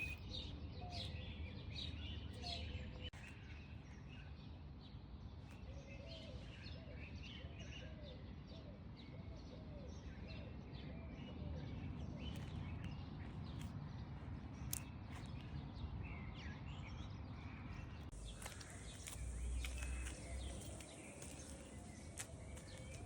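Small birds chirping and twittering in many short, quick calls over a steady low background rumble.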